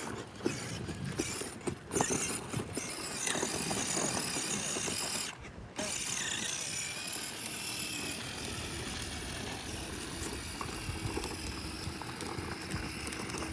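A child's ride-on toy motorbike rolling along, its wheels and plastic parts rattling steadily, with a few clicks in the first couple of seconds.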